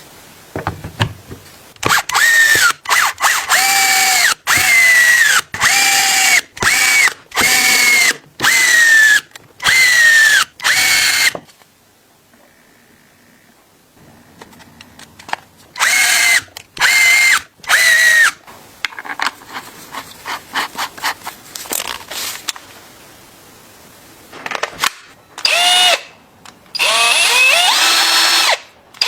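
Handheld electric drill run in short trigger bursts. Each burst is about half a second of motor whine that climbs in pitch and sags as the trigger is released, repeated about a dozen times in quick succession. After a pause come three more bursts, a stretch of light clicking, then a few longer runs near the end.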